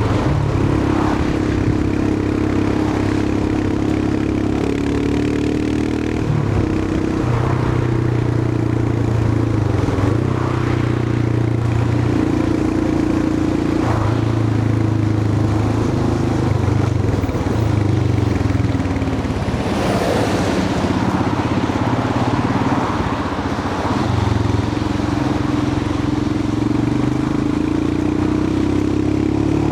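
Royal Enfield Himalayan 411's air-cooled single-cylinder engine running on the move, its pitch shifting several times as the throttle and gears change, over wind and tyre noise. A brief rush of noise about two-thirds of the way through.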